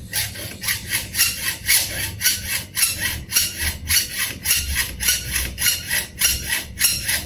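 Hand saw cutting through a bicycle part with quick, even back-and-forth strokes, about two to three a second.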